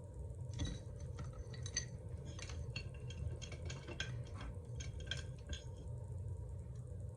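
A paintbrush being rinsed in a glass cup of water: a run of light clinks against the glass, mixed with small splashes, for about five seconds.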